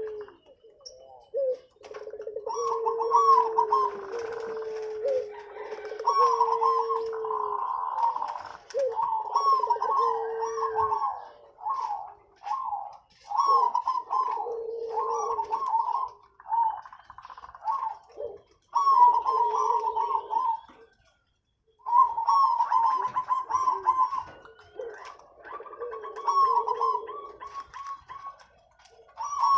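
Several zebra doves (perkutut) cooing in overlapping, repeated phrases, one lower-pitched and one higher, pausing briefly about two-thirds of the way through. Fainter high chirps of small birds sound behind them.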